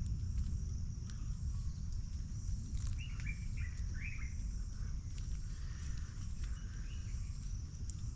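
Rural outdoor ambience: insects chirring in a steady high tone, with a short run of four or five bird chirps about three seconds in, over a low rumble.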